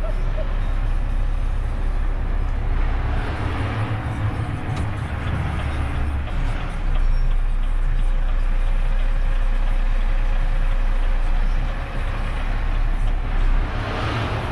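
Renault truck's engine running in low-speed traffic: a steady low rumble that grows heavier about three seconds in and eases about six seconds in, with a hissing swell near the end.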